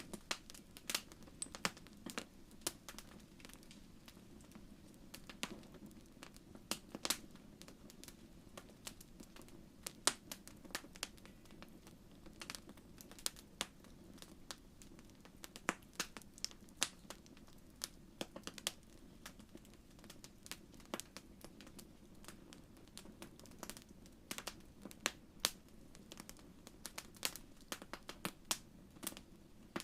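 Wood fire crackling in a fireplace: irregular sharp pops and snaps of varying loudness over a soft low rumble of the burning fire.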